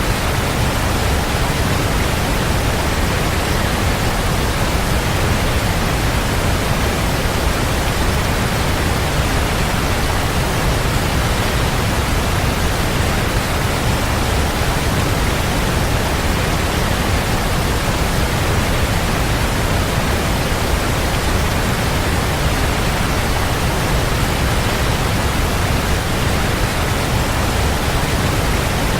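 Waterfall: a steady, full rush of falling water with a deep low rumble, unchanging throughout.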